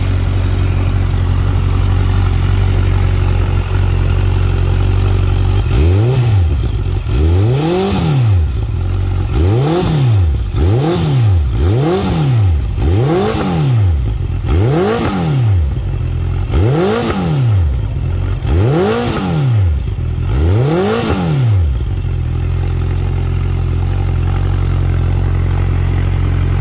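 Honda CBR650R inline-four exhaust through a Yoshimura R11 carbon-look slip-on muffler with its baffle fitted: idling steadily, then blipped about ten times in quick succession, each rev rising and falling back, before settling to idle again near the end.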